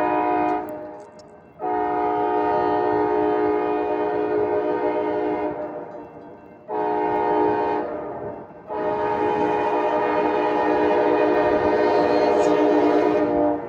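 Freight locomotive air horn sounding a chord of several steady tones in the grade-crossing pattern: the end of one blast, then a long blast, a short one and a final long one that runs almost to the end. The low rumble of the passing train runs beneath.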